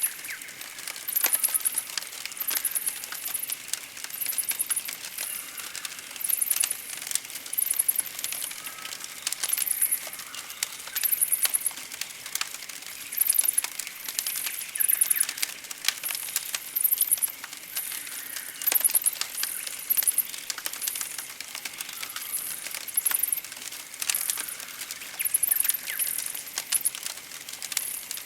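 Campfire crackling with scattered sharp pops, under a very high-pitched, fast-pulsed trill that repeats about every second and a quarter.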